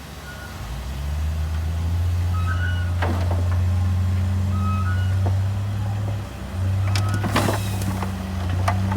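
Heavy diesel earthmoving machinery running with a steady low drone that grows louder about a second in. Metal clanks come about three seconds in, a hissing burst about seven seconds in, and more clanks near the end.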